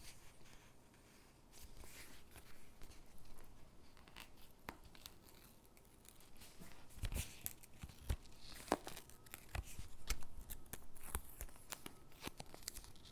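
Stickers being peeled off their backing sheet and pressed onto paper gingerbread cutouts: soft peeling and paper rustling with irregular sharp clicks and taps, busiest in the second half.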